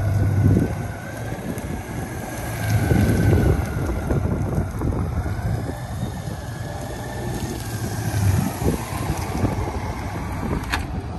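Honda Gold Wing's flat-six engine running at low speed, swelling and easing with small throttle openings as the bike circles slowly, with wind on the microphone. A sharp click near the end.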